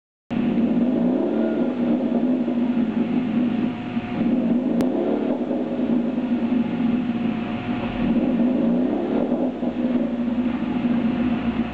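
Ford Focus 2.0's four-cylinder engine running through an aftermarket Thunder header, mid pipe and single-outlet sport muffler. It gives a steady exhaust drone with slight rises and falls in pitch.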